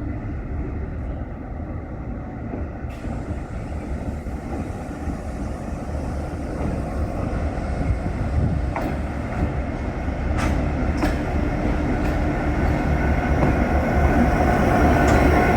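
T-class diesel-electric locomotive T411 running into the station, its engine and wheel rumble growing steadily louder as it approaches. There are a few sharp clicks about nine and eleven seconds in.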